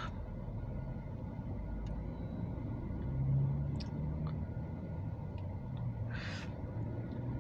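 A low steady rumble that swells slightly in the middle, with a few faint clicks and a short hiss about six seconds in.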